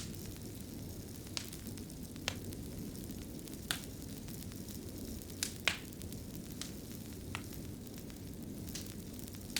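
Fireplace fire crackling: a steady low rumble of burning with sharp, irregular pops about every second.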